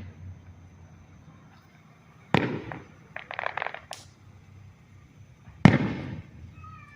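Fireworks going off: a sharp bang about two seconds in, a quick run of crackling pops a second later, and another bang near the end.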